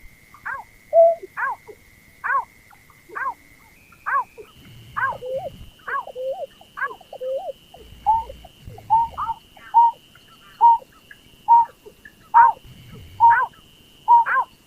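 A berkik (pekung), a rice-field bird, calling over and over: short curving whistled notes, one to two a second, from a call recording of the kind used as a trapping lure. A steady high tone runs underneath and steps up in pitch about four seconds in.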